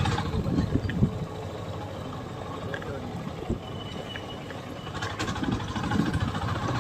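Motorcycle engine running while riding, picked up by the rider's mic: the engine note drops off at the start, stays low and rumbly with uneven low thumps, then picks up again about five seconds in.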